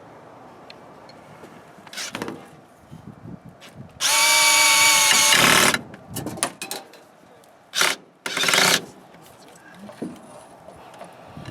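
Power drill driving screws into wooden framing: a steady motor whine for about a second and a half, with shorter bursts before and after.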